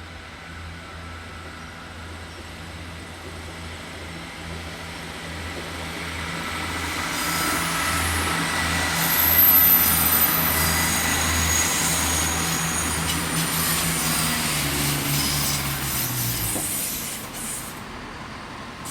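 Passenger train of the A1 Tornado railtour rolling past, its carriage wheels squealing high on the rails as it swells to its loudest about halfway through and then fades. A steady low hum runs under it, dropping in pitch and dying away near the end.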